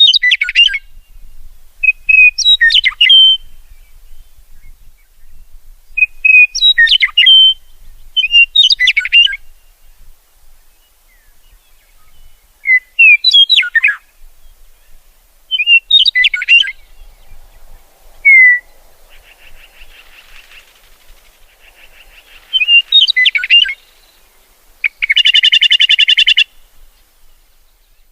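Songbirds singing short chirping phrases, repeated every two to three seconds. A faint buzzing trill comes in about two-thirds of the way through, and a loud, rapid buzzing trill sounds near the end.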